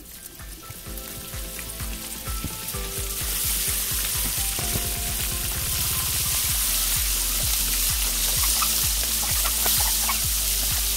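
Flour-dusted fish pieces frying in a pan of hot oil, a steady crackling sizzle. It builds up over the first three seconds or so as the fish goes into the oil, then holds.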